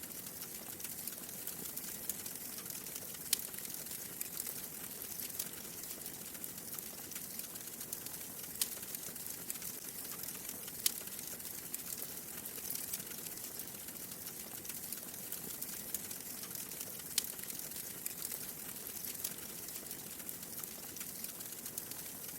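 Wood fire burning in a fireplace, a steady soft hiss with scattered sharp crackles and pops, a few louder snaps among them.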